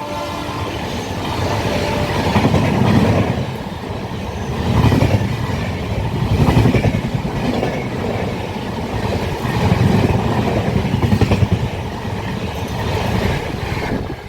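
Passenger train passing at speed, its wheels clattering over the rail joints with a low rumble that swells about every second and a half as each coach goes by. The last of a horn note dies away just at the start, and the sound drops off suddenly at the end.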